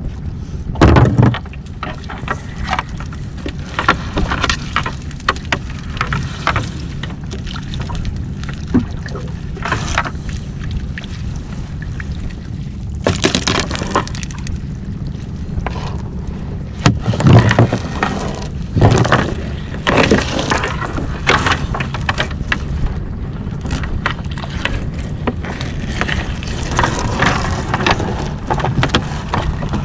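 Crab gill net being hauled aboard a small fishing boat: irregular knocks, clatter and splashes over the boat's steady low rumble, with the loudest knocks about a second in and again around 17 and 19 seconds in.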